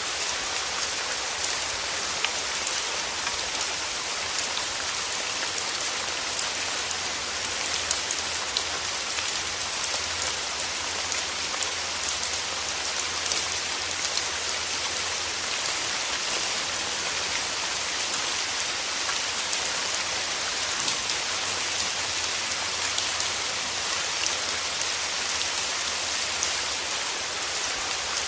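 Steady rain falling in a forest: an even hiss strongest in the highs, sprinkled with many small drop ticks.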